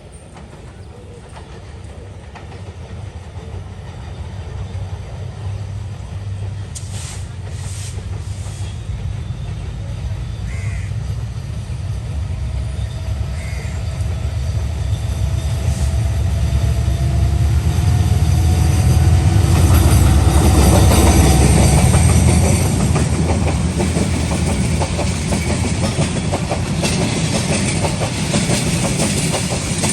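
Bangladesh Railway intercity train, the Kurigram Express, drawing near and passing. Its rumble grows steadily louder to a peak about twenty seconds in, then the carriages keep clattering past over the rail joints.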